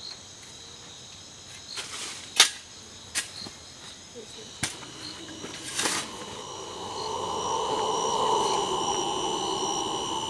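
Jungle insects chirping steadily in high, unbroken tones, with a few sharp clicks in the first half. A lower, steady rushing sound swells in during the last third.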